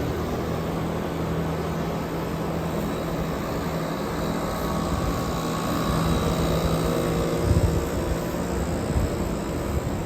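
Several air conditioner units running together: a steady mechanical hum under an even fan rush. Two brief low bumps come in the second half.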